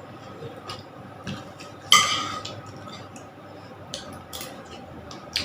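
A metal spoon clinking and tapping against a plate while eating. About two seconds in comes one loud, ringing clink, with a few lighter taps scattered around it.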